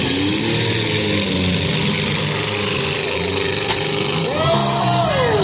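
Several compact demolition derby cars' engines revving as the cars manoeuvre in a dirt arena, their pitches rising and falling over one another. One engine climbs in pitch about four seconds in, holds, and drops away near the end.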